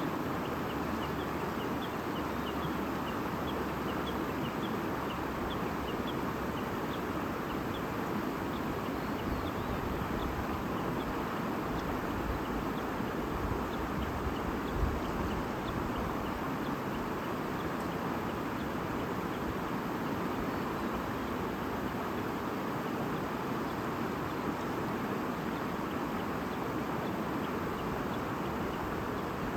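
Steady murmur of a flowing stream. Faint short bird chirps come through it, most often in the first several seconds.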